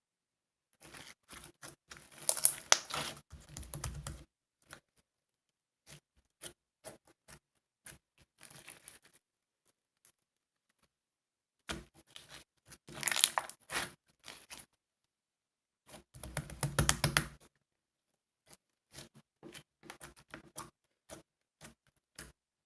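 Bursts of rustling and crinkling, as of something being handled, torn or crumpled, with scattered small clicks and taps between them. The loudest bursts come about two seconds in and again around the middle.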